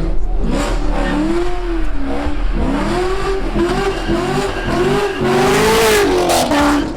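Muscle car engine revving hard, its pitch rising and falling in repeated waves, with a loud hiss of spinning tires about five seconds in.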